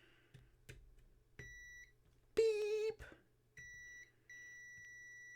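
AstroAI digital multimeter's continuity beeper sounding a steady high beep, showing that the headlight switch contacts now close when the switch is turned on. It comes on and off: two short beeps, then a long held one, with a couple of sharp switch clicks just before the first.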